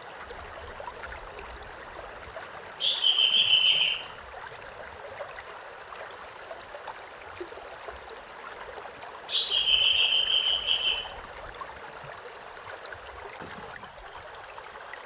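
A stream running steadily, with a bird calling twice, about three and ten seconds in: each call is a high, rapid trill lasting a little over a second and is louder than the water.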